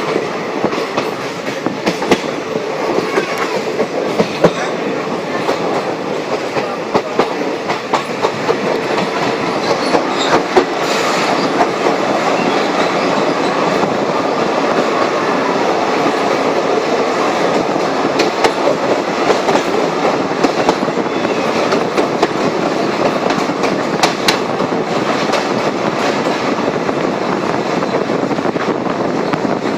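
Train running along the track: a steady rumble with the wheels clicking irregularly over the rails.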